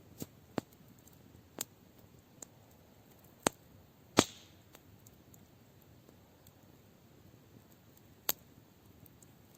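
Campfire crackling: sparse, irregular sharp pops from burning wood, the loudest a little after four seconds in with a short hissing tail.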